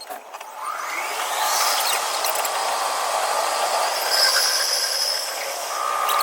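Tokyu 5050 series electric train's inverter and traction motors whining as it accelerates, the tones rising in pitch for about a second, then holding steady over running noise.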